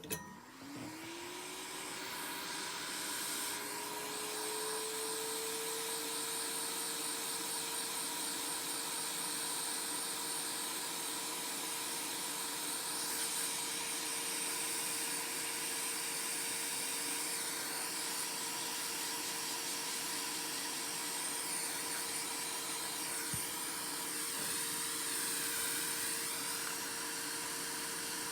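Hot-air blower (heat gun) switched on: its fan motor spins up with a rising whine over about five seconds, then runs at a steady pitch with a continuous rush of air.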